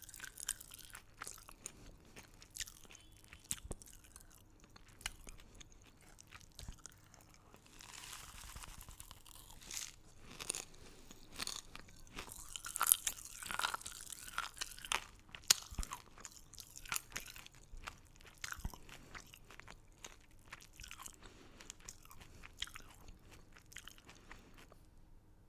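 A person biting and chewing crunchy candy close to the microphone: sharp crackling crunches between stretches of softer chewing, busiest and loudest in the middle, easing to quieter chewing near the end.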